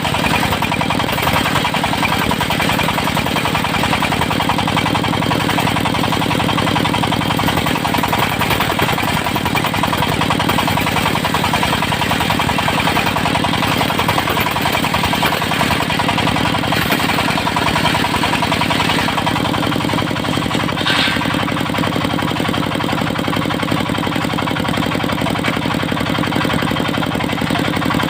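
Diesel engine of a portable circular sawmill running steadily at an even speed, with a brief high whine about three-quarters of the way through.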